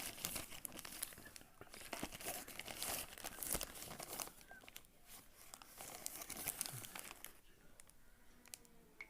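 Packaging being handled and opened, crinkling and tearing with irregular clicks, easing off about seven and a half seconds in.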